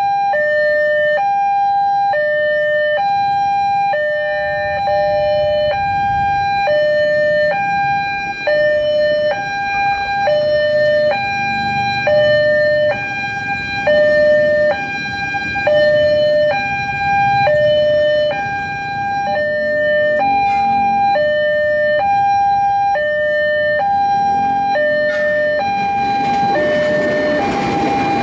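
Railway level crossing warning alarm on a Siemens crossing, the newly fitted replacement unit, sounding a steady hi-lo two-tone, alternating between two pitches about once a second. A low rumble rises and falls underneath through the middle.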